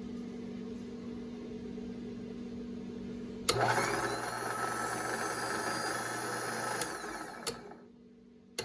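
Electric motor of a Ramsey 12,000 lb worm-gear winch switched on with a click about three and a half seconds in, running with a steady gear whine, then cut off and spinning down to quiet before being switched on again with a click at the very end. Before it starts there is a steady low hum.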